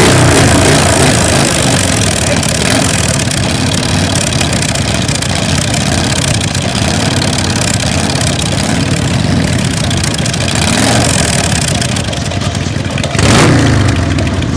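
Custom chopper motorcycle engines running loudly with small swells of throttle, then a sudden sharp rev near the end.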